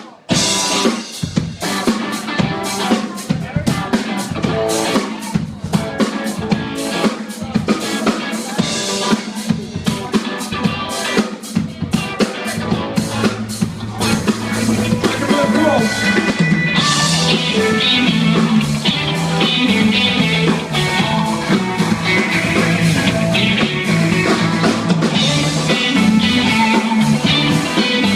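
Live rock band playing an instrumental passage: a drum kit with snare and bass drum hits, bass and electric guitar. It starts abruptly and grows fuller and louder about halfway through.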